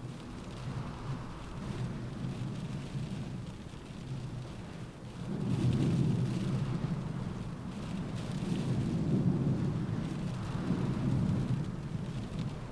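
Rain in a windstorm, with low rumbling surges that swell about five seconds in and again around nine seconds.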